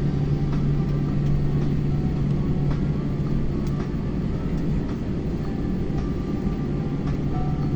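Steady low rumble and hum inside an airliner cabin as the plane taxis, with faint ticks and rattles over it.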